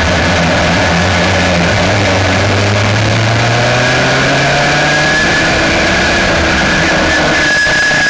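Aixro rotary (Wankel) kart engine running hard, its pitch rising steadily for about five seconds as the kart accelerates, then holding level.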